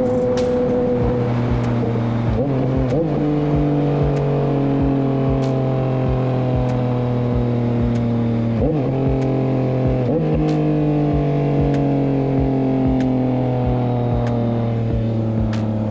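Motorcycle engine running under way. Its pitch falls slowly and jumps abruptly a few times, about 3, 9 and 10 seconds in.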